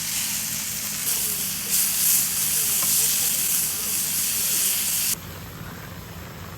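Food frying in fat on a cast-iron cauldron lid over a wood fire, sizzling loudly; the sizzle cuts off abruptly about five seconds in, leaving a quieter steady hiss.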